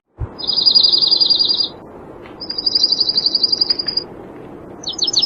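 A songbird singing three high, rapid trills, each a quick run of repeated notes lasting about a second and a half, with short pauses between them.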